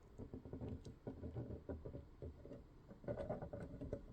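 Faint, irregular small taps and scrapes from handling the 3D-printed plastic helmet sections while glue is run around the edge.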